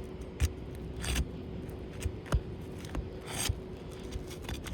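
Asphalt roof shingle being pried off its seal strip, with short scraping and ripping strokes, four or five in a few seconds. The brittle shingle tears as it is unsealed.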